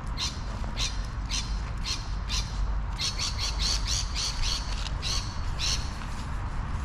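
A bird calling in a series of short harsh squawks, about two a second at first and then a quicker run in the middle, over a steady low rumble.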